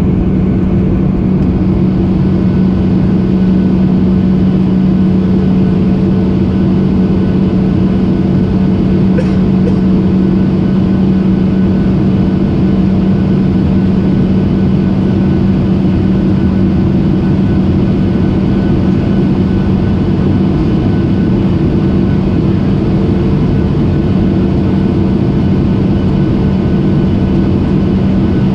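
Airliner cabin noise in flight: a loud, steady drone of engines and airflow with a constant low hum running through it.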